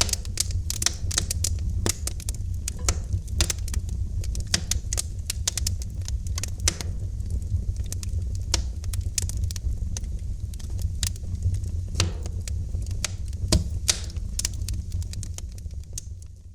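Wood fire crackling in a fireplace: frequent sharp pops and snaps over a steady low rumble of the flames. The sound drops away near the end.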